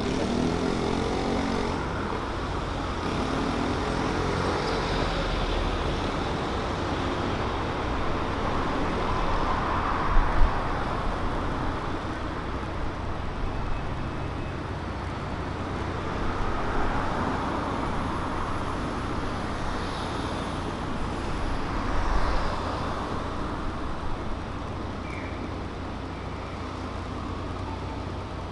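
City street traffic: cars passing one after another, each swelling and fading over a steady hum of road noise. The loudest pass comes about ten seconds in.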